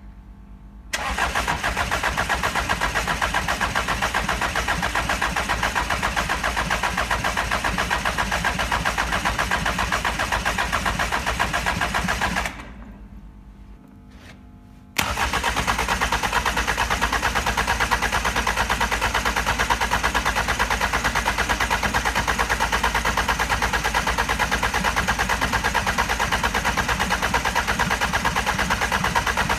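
Starter motor cranking a Hyundai/Kia D4EA 2.0 CRDi diesel engine over without it firing, as in a compression test, with a fast even rhythm. It cranks for about eleven seconds, stops for about two seconds, then cranks again steadily.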